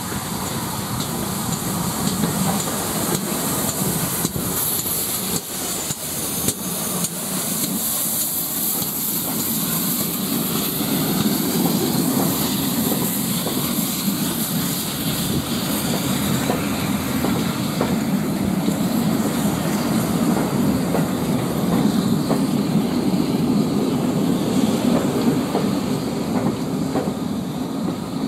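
A steam-hauled passenger train moving slowly past, its coaches rumbling steadily with the clickety-clack of wheels over rail joints.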